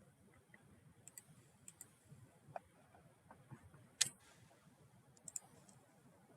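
Faint, scattered clicks of a computer mouse, several in quick pairs, the sharpest about four seconds in.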